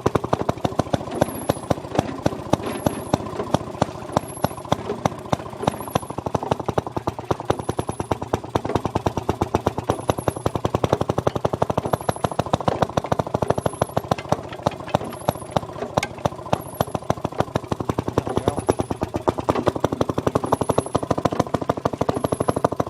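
Maytag Model 92 single-cylinder two-stroke engine running steadily, its exhaust popping in a rapid, even beat as it drives the wringer washer.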